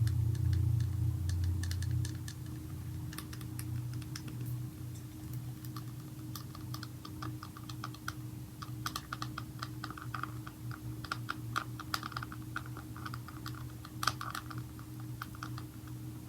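Light, irregular tapping on a slime container, quick clicks coming in uneven clusters, over a steady low hum that is louder for the first couple of seconds.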